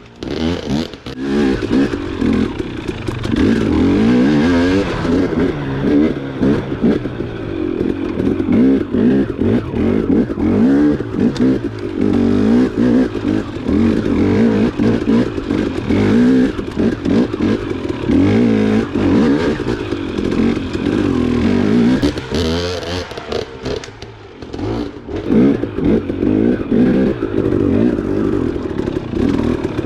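Dirt bike engine running and revving up and down continuously while being ridden along a trail, easing off briefly about three quarters of the way through before picking up again.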